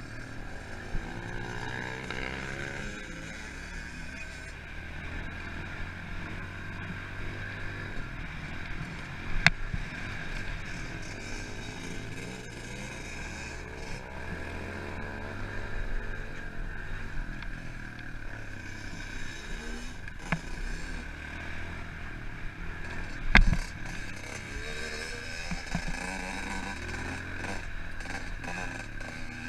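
Pit bike engine revving up and down as it is ridden around a motocross track, pitch rising and falling with the throttle, over a steady rushing noise. Two sharp knocks stand out, about a third of the way in and again near the end.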